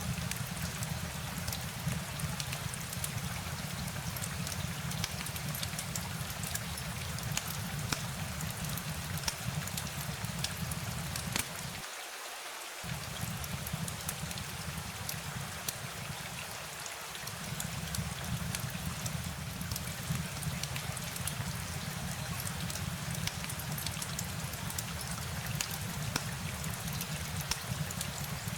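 Steady rain: an even hiss full of sharp, close drop ticks. Under it runs a low rumble that cuts out for about a second around twelve seconds in and dips again around seventeen seconds.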